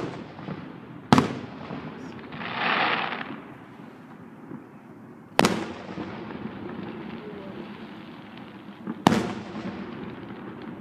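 Fireworks shells bursting overhead: four sharp booms, each followed by a rolling echo, spaced unevenly over about nine seconds. A brief hiss sounds between the second and third booms.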